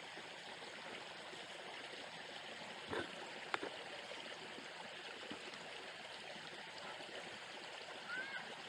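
Water of the rapids running in a steady rush, with two light knocks about three seconds in and a short rising chirp near the end.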